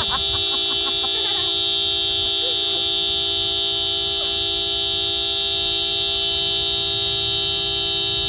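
A steady horn-like tone held at one unchanging pitch without a break, with faint short rising and falling sounds beneath it.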